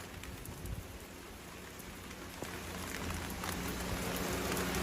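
Steady rain falling, with scattered drop ticks, growing somewhat louder in the second half.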